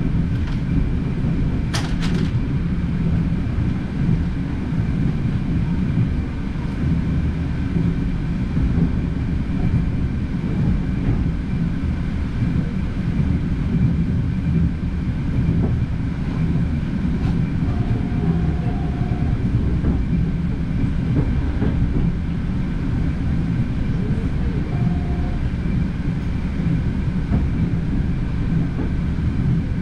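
Passenger train running at speed, heard from inside the carriage: a steady rumble of wheels on the track, with a couple of sharp clicks about two seconds in.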